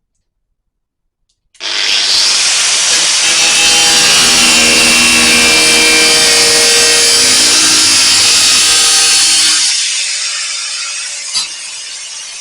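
Angle grinder with a cut-off disc slicing relief cuts into sheet steel for a rust-repair panel: it starts suddenly about a second and a half in, runs steadily with a high-pitched grinding whine for about eight seconds, then fades as the disc spins down near the end.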